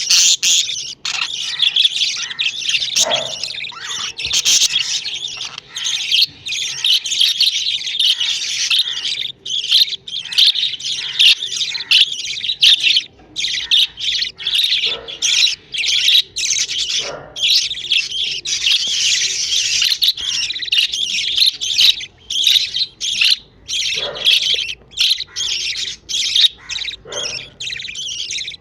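Budgerigar chicks making raspy begging calls for food: a dense, high-pitched chattering that goes almost without a break, with short pauses here and there.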